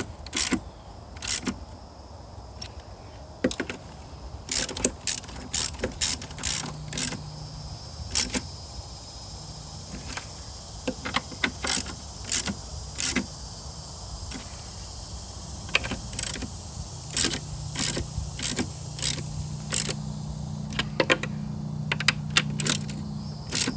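Hand socket ratchet clicking in short irregular runs as nuts are tightened onto the jet pump's mounting studs.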